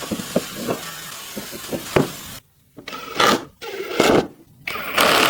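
Repeated strokes of a hand tool working wood, three noisy strokes about a second apart. Before them, a steady hiss with light clicks cuts off abruptly about two and a half seconds in.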